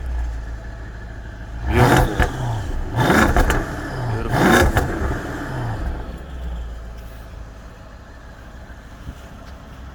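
BMW 550i F10's 4.4-litre twin-turbo V8, fitted with dual intake pipes and air filters and stock mufflers, free-revving in three quick throttle blips, each rising and falling, then settling back toward idle.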